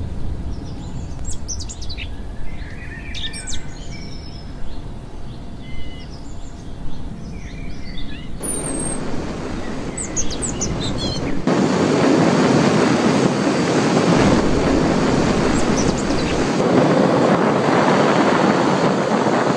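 Birds chirping and calling in short, gliding notes over a low rumble of outdoor noise. About eleven seconds in, a louder, steady rushing noise takes over and the chirps are no longer heard.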